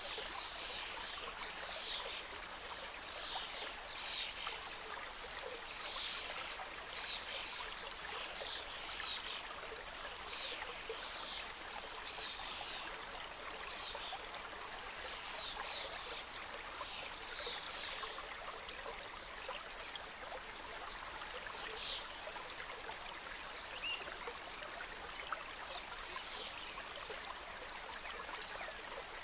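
Mountain stream cascading through a forest: a steady rush of water with frequent brief, high trickling splashes on top, busier in the first half.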